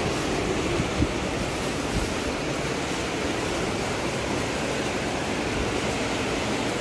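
Fast river water rushing steadily, with two short low thumps about one and two seconds in.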